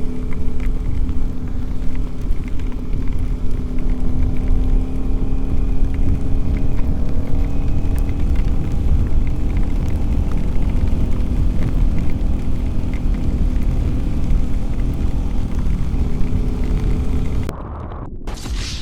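Motorcycle engine running at a steady cruise, its tone drifting slightly, under heavy wind rumble on the microphone. Near the end the sound drops abruptly quieter.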